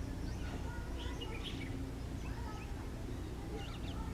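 Several birds chirping and calling in short, scattered notes and quick pitch slides, over a steady low background rumble.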